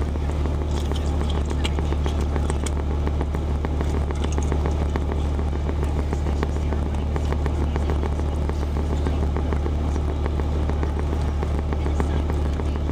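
Steady low hum of the Jeep's idling engine heard from inside the cabin, with faint crackly crunching of fried chicken being chewed close by.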